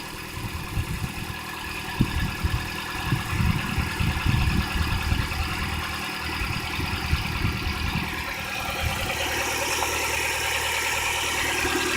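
1991 Toyota Corolla DX's 1.6-litre four-cylinder engine idling steadily.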